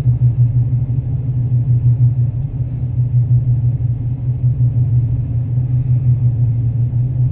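Steady low rumble of a vehicle driving slowly, heard from inside the cab: engine and road noise.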